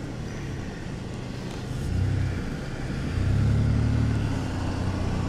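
Truck engine running, heard from inside the cab, with a low hum that swells twice in loudness as it pulls away, over steady road and tyre noise.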